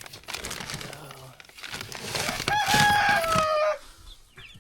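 A rooster crows once, a call of about a second and a half that holds its pitch and then drops near the end. Before it comes a stretch of rustling, and faint chick peeps follow near the end.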